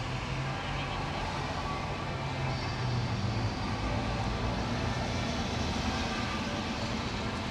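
An engine running with a steady low hum over a dense background of noise.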